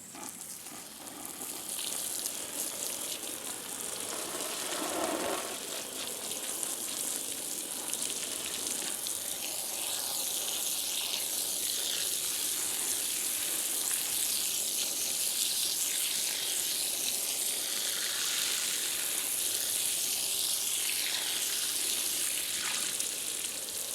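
Water running steadily from a garden hose into concrete mix, a continuous hiss that builds over the first couple of seconds and then holds.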